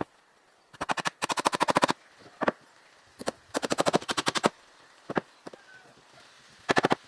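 Rapid sharp tapping, about a dozen taps a second, in three runs of about a second or less, with a few single knocks between them.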